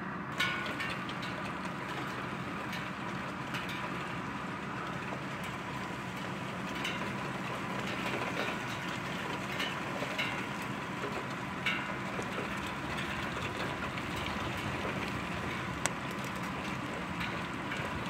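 Heavy rain falling steadily, with scattered drops tapping on nearby surfaces and a sharp tap just after the start and another near the end.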